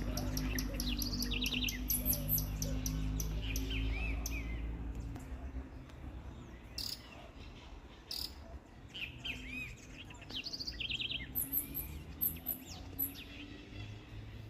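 Small songbirds chirping and calling, with many short high chirps, quick trills and arched whistled notes overlapping from several birds. A low steady hum sits under the calls and stops about five seconds in.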